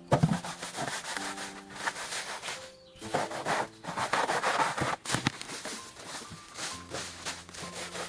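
Repeated rasping strokes of a hand tool working wood, such as sawing or scraping, over soft background music. A sharp knock just at the start is the loudest sound.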